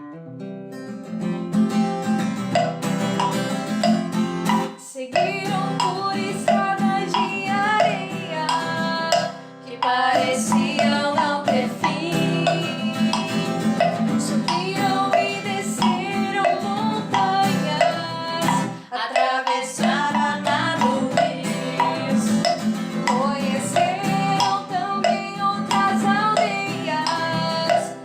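Song with strummed acoustic guitar and a woman singing. The music dips briefly three times, about five, nine and nineteen seconds in.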